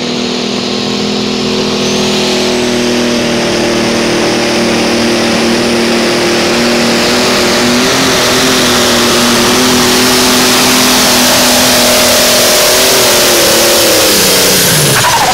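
Pro Stock pulling tractor (a John Deere 7520) running flat out under load down the track, a loud steady drone with a hiss that builds over the pull and a high whine rising early on. Near the end the engine pitch falls sharply and the sound dies away as the tractor comes off the throttle.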